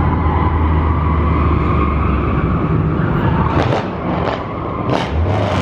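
Car engine running with a steady low rumble, with a few short, sharp noises over it in the last couple of seconds.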